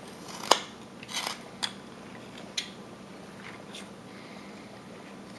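Hand carving tool slicing into wood in short separate cuts: a sharp snap about half a second in, a rougher scraping cut just after one second, then three more single cuts spaced out over the next few seconds.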